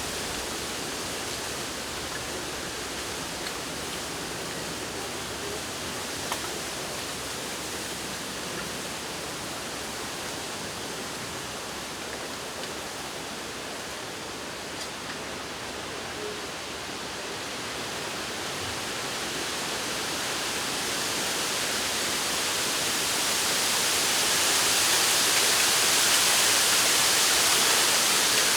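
Wind rustling through the leaves of a bamboo grove: a steady hiss that swells louder over the second half.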